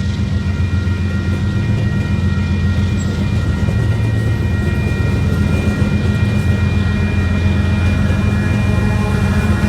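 Train running close by: a loud, steady low rumble with a few faint, steady high-pitched tones above it.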